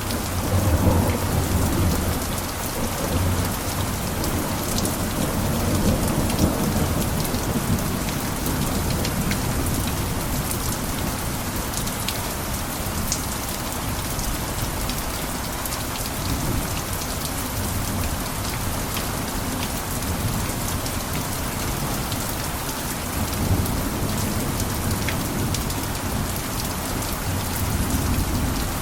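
Steady heavy rain, a constant hiss dotted with sharp drop ticks, with low rolling thunder rumbles near the start and again near the end.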